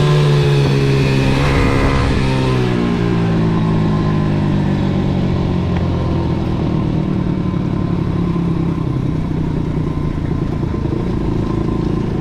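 MRF 140 SM pit bike's single-cylinder four-stroke engine, recorded onboard. The revs fall away over the first few seconds, then the engine runs steadily at low revs.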